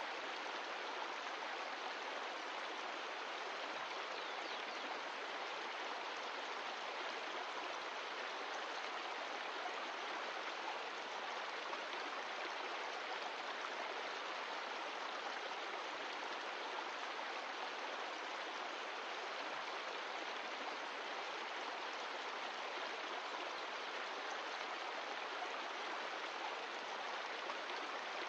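Mountain stream running steadily: an even, unbroken rush of water.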